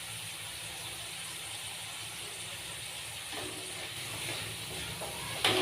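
Minced chicken frying in hot oil in a pan with freshly added diced potatoes, giving a steady sizzling hiss. A short knock comes near the end.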